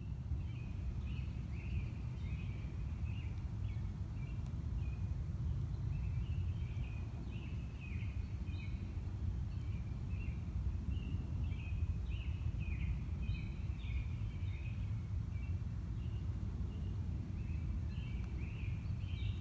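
Small birds chirping and twittering again and again over a steady low rumble.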